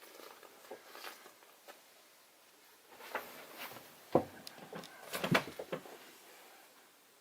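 A scatter of light clicks and knocks, with a sharper knock just after the middle and a quick cluster of knocks soon after, like handling or footsteps in a small room.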